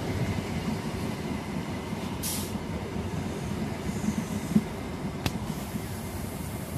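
ScotRail HST (Class 43 power cars with Mark 3 coaches) moving slowly alongside the platform with a steady low rumble. A short hiss comes about two seconds in, a brief low thump about four and a half seconds in, and a sharp click a little after five seconds.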